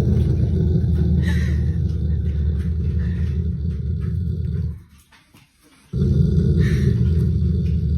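A dog growling in long, low, rough rumbles. It breaks off a little under 5 s in and starts again about a second later.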